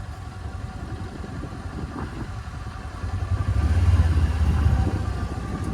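Small off-road vehicle engine running steadily as it rolls downhill, with a low rumble that grows louder about three seconds in.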